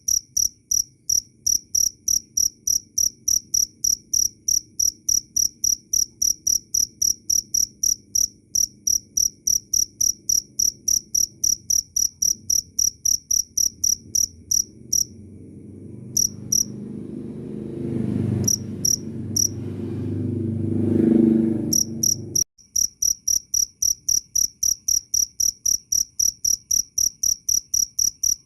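Cricket chirping in a steady, even rhythm of high-pitched chirps, about two to three a second. The chirping drops out for several seconds in the middle while a low rumbling noise swells louder and then cuts off abruptly, and the regular chirping picks up again right after.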